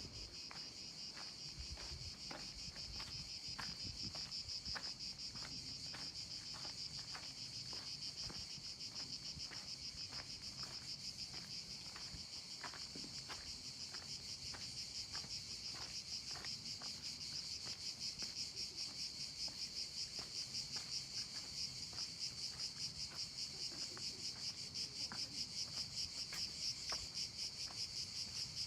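A steady, high insect chorus that grows louder toward the end, over regular footsteps at about two a second.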